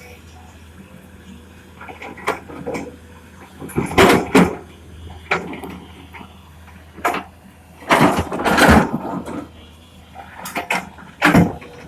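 Excavator at work: a steady low engine hum under irregular heavy clanks and knocks every second or two.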